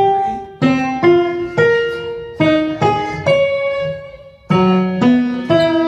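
Piano playing a slow line of single notes, one struck roughly every half second, each ringing and fading before the next.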